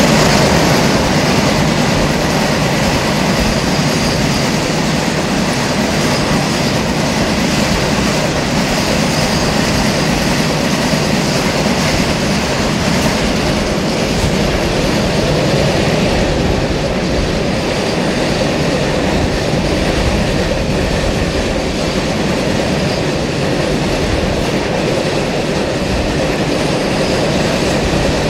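A goods train's BOXN open freight wagons rushing past close alongside on the next track: a loud, steady rumble and rattle of wagon bodies and steel wheels on rail, heard from a moving train.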